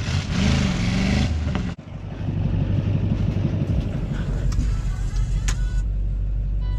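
Truck engine running hard, its pitch rising and falling in the first couple of seconds. The sound breaks off sharply just before two seconds in, then the engine carries on steadily.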